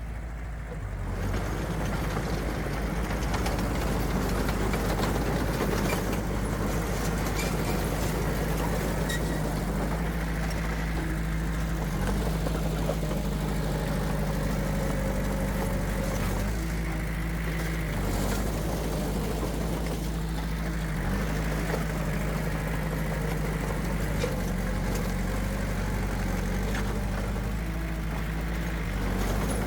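Diesel engine of heavy earthmoving machinery running steadily, getting louder about a second in.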